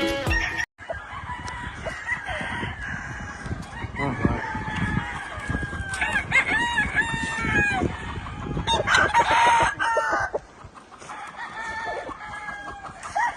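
Gamefowl roosters crowing several times, with clucking in between; the loudest crows come about six and nine seconds in.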